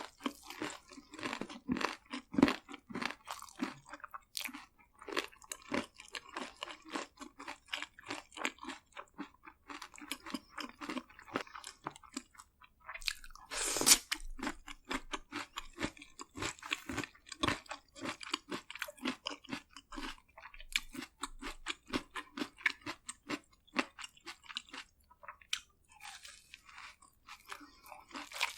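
Close-up chewing and crunching of crisp fried food, with many small irregular crackles and one louder crunching bite about halfway through.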